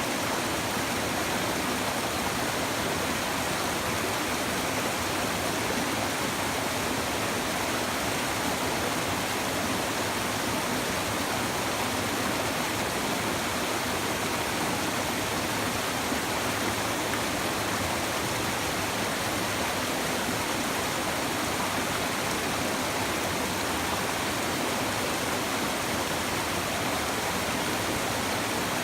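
A shallow river or stream babbling steadily, a continuous even rush of water.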